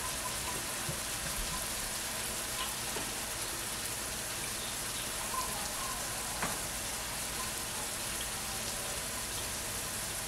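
Ground beef with bell pepper and onion frying in a pot, a steady sizzling hiss, with a light click a little past halfway.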